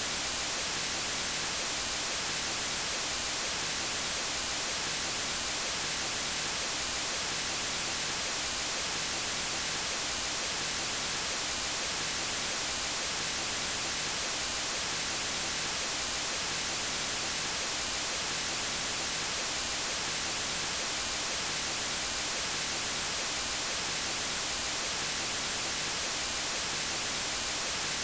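Steady white noise, an even hiss across the whole range with no tones or events, looping unchanged.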